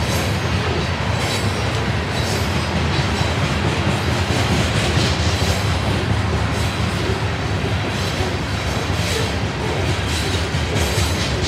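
Loaded rock train's freight cars rolling past at close range: a steady rumble of steel wheels on rail, with scattered clicks as wheels pass over rail joints.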